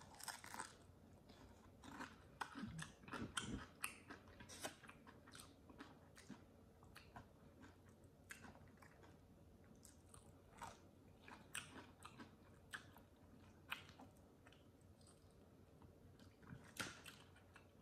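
A person biting and chewing crispy fried chicken: faint, irregular clicks and smacks of the mouth and food.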